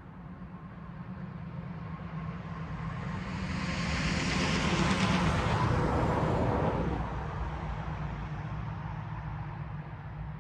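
A road vehicle passing by: its tyre and engine noise grow louder, peak about five seconds in, then fade away.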